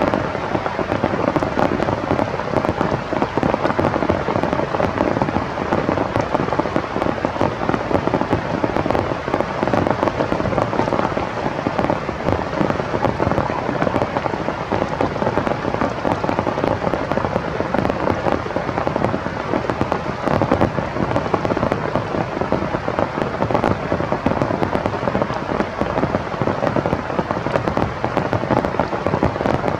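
Heavy rain falling, a loud, steady, dense patter of drops with no letup.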